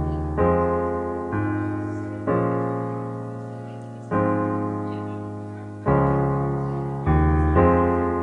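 Piano playing slow, sustained chords as a song's introduction, a new chord struck every one to two seconds and left to ring and fade.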